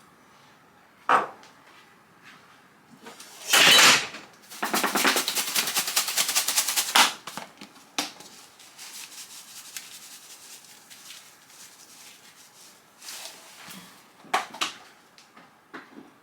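Kitchen handling clatter while seasoning chicken: a sharp knock, a loud rustling burst, then a rapid rattle of clicks for about two and a half seconds, followed by scattered lighter taps.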